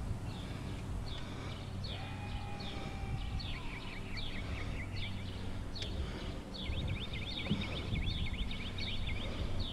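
Songbirds singing and chirping, with a quick run of repeated down-slurred notes in the second half, over a steady low hum.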